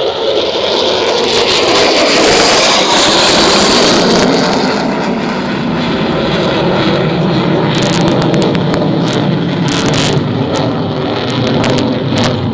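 An F-16 fighter's single jet engine roaring past overhead: the roar swells to its loudest about two to four seconds in, then fades to a lower rumble. A few sharp clicks come near the end.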